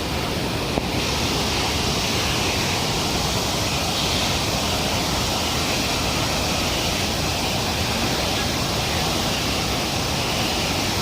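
Waterfall in heavy flood after heavy rain: a steady, unbroken rush of falling water. A single brief click about a second in.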